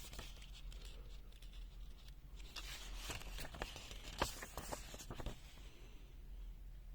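Handling noise: a run of small sharp clicks and scratchy rubbing, from about two and a half to five seconds in, the loudest click a little after four seconds, over a low steady hum.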